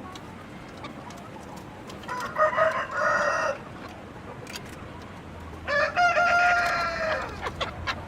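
Roosters crowing twice: a shorter crow about two seconds in, then a longer one about six seconds in that holds its note and falls away at the end.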